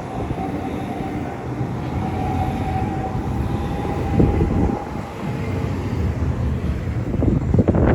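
Class 395 Javelin high-speed electric train moving at the platform: a steady rumble with a faint steady whine over it.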